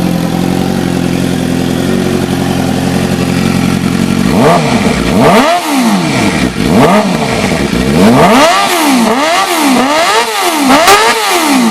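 2006 Suzuki GSX-R600's inline-four running through a Two Brothers Black Series full exhaust. It idles steadily, then about four seconds in is revved twice, followed by a quick run of about five revs before dropping back to idle. The sound is loud and rowdy.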